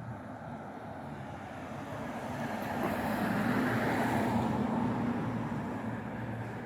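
A motor vehicle driving past on the road: engine hum and tyre noise build up, are loudest around the middle, and fade away again.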